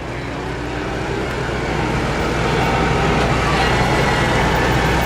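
Modified pulling lawn tractor's engine running hard, getting steadily louder, with a faint whine slowly rising in pitch near the end.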